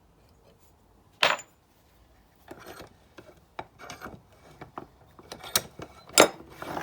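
Hand tools and metal brake parts being handled: a sharp knock about a second in, then several seconds of scraping and rubbing broken by scattered clicks, two of them loud near the end.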